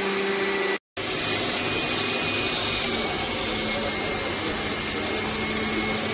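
Electric motor of a cold-press juicer running with a steady whirring hum. It cuts out briefly about a second in and comes back.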